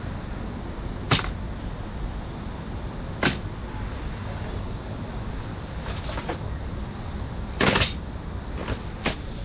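A few sharp knocks a couple of seconds apart, the loudest a quick double knock near the end, over a steady background hiss.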